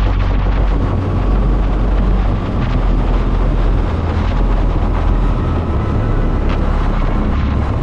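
Motorcycle engine running steadily while riding, mixed with heavy wind on the microphone.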